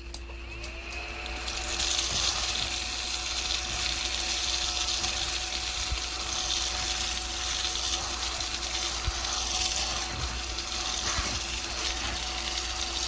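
Small battery-powered mini desktop vacuum cleaner switching on, its motor whine rising over the first second or so and then running steadily with a hiss of air as it sucks up table salt.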